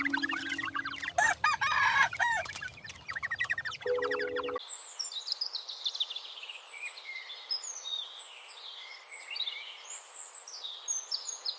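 Chickens clucking and a rooster crowing about a second in. After a sudden cut about four and a half seconds in, small birds chirp over a light hiss.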